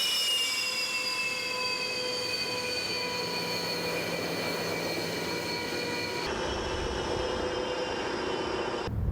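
Jet engine whine from a fighter's turbofans, several high tones sliding slowly lower. About six seconds in it cuts to a lower rumble with steadier tones.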